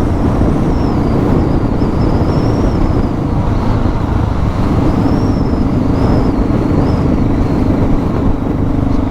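Suzuki DR650's single-cylinder engine running steadily under way, with road and wind noise.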